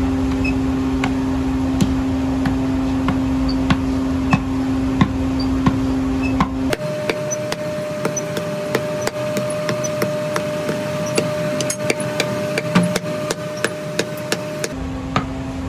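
Repeated irregular hammer knocks on metal, several a second, over a steady machine hum. The hum changes pitch abruptly about seven seconds in and changes back near the end.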